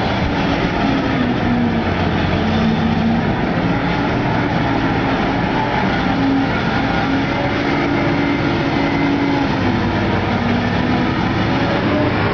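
Heavy diesel machinery running steadily under load, a dense mechanical rumble with engine tones that shift up and down in pitch.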